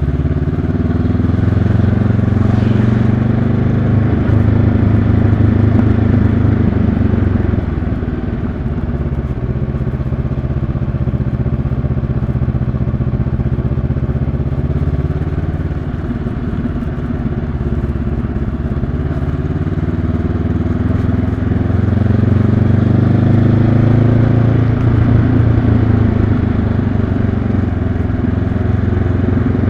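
2022 Honda CB500X's 471 cc parallel-twin engine running on a downhill ride. Its pitch drops a few times and climbs again as the revs fall and rise.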